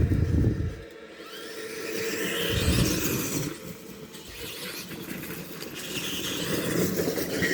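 Tamiya TXT-2 RC monster truck driving, its motor and drivetrain whining in uneven surges as the throttle is worked.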